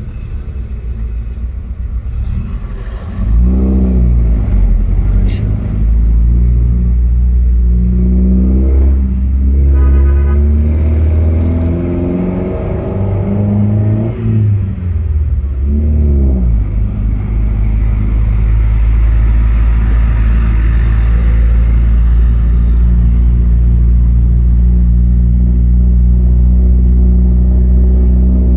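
Car engine heard from inside the cabin on a winding mountain road, revving up and down several times in the first half, then running at a steady pitch with road rumble.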